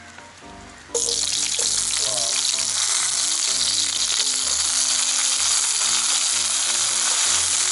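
Thin potato slices dropped into hot oil in a frying pan, setting off a loud, steady sizzle that starts suddenly about a second in.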